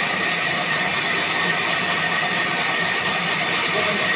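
Sawmill machinery, such as a band saw, running steadily: a continuous hiss with a thin steady high whine.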